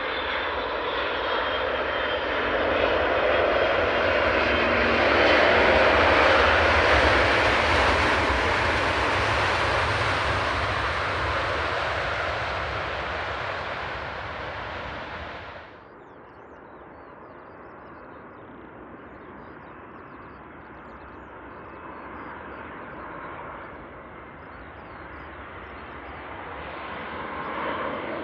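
Jet noise from a landing Boeing 777-300ER's two GE90 turbofans, swelling to a loud peak and slowly fading as it passes; it cuts off abruptly about halfway through. Fainter jet noise from an arriving Boeing 787-9 then builds again near the end.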